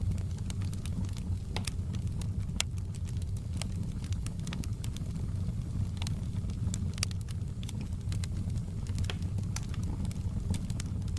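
Fire crackling in a fireplace: a steady low rumble with frequent, irregular sharp pops and snaps.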